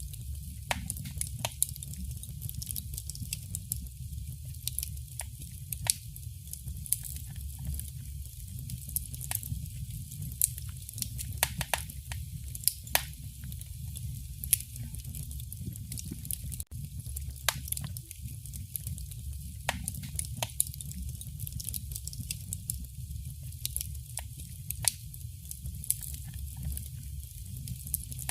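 Wood fire crackling in a fireplace: irregular sharp pops and snaps, several a second, over a steady low rumble of the burning. The sound cuts out for an instant a little past halfway.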